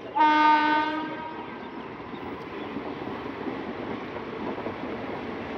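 A train horn sounds one blast of about a second near the start, over the steady rumble of passenger coaches rolling past.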